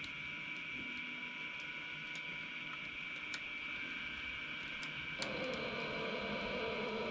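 Model trains running on a layout: a steady whine from small electric motors, with a few sharp clicks. About five seconds in, a louder rolling rumble joins.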